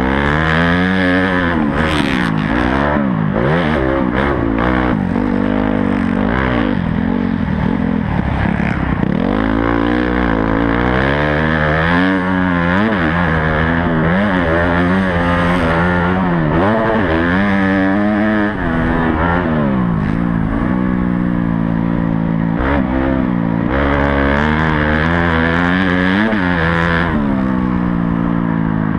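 Honda CRF250 dirt bike's single-cylinder four-stroke engine heard from on the bike, revving up and dropping again and again as the throttle is opened and chopped through the gears around the track, with chassis clatter.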